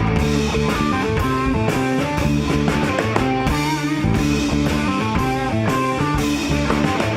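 A rock band playing live, with an electric guitar running a fast line of notes over bass and a drum kit.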